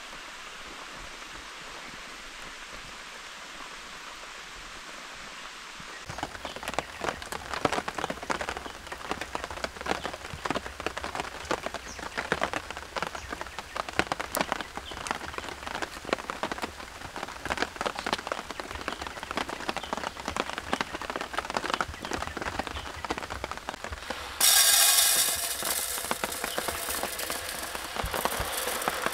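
Rain falling: a steady hiss at first, then from about six seconds in a dense, irregular pattering of drops striking close by. Near the end a louder rushing hiss comes in for the last few seconds.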